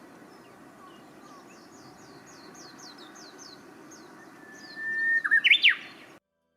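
Wild songbirds: a quick series of high, downward-sliding notes, about four a second, then, near the end, a much louder song of one long steady whistle breaking into a quick rising-and-falling flourish. The sound cuts off abruptly just after the flourish.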